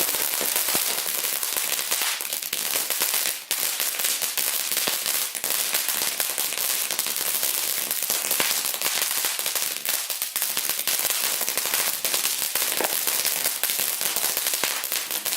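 Fireworks crackling fast and densely, with many small pops a second in a long unbroken run and a brief lull about three and a half seconds in.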